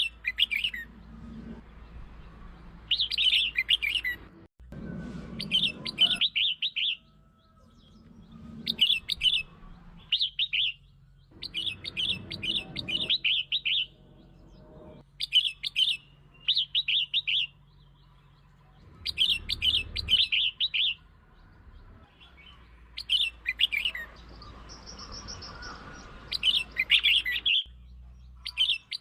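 Red-whiskered bulbul singing: short, quick warbled phrases repeated every two to three seconds.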